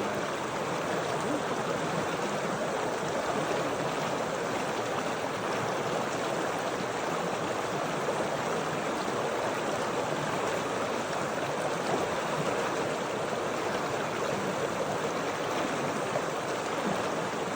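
Running water of a stream or creek, a steady even rush without pauses.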